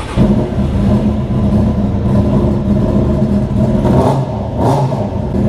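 1996 Suzuki Katana 600 (GSX600F) inline-four engine running at a steady idle, cold, just after being started when wet from a wash.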